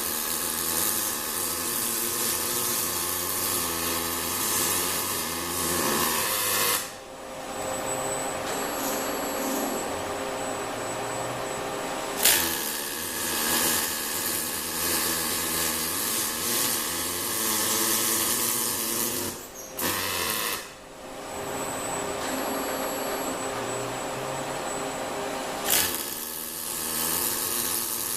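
Fronius CMT welding arc on an ABB robot welder: steady buzzing, hissing weld runs that stop and start again several times, each beginning suddenly. Between the runs are quieter pauses with a faint high whine.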